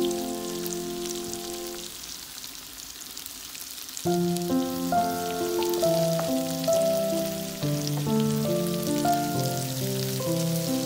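Okra and onions sizzling and crackling as they fry in a pan, under instrumental background music that dies away about two seconds in and starts a new phrase at about four seconds.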